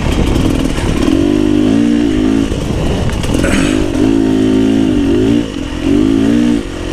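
Beta 300 RR two-stroke single-cylinder enduro motorcycle engine, revving up and falling back about four times as the throttle is opened and closed.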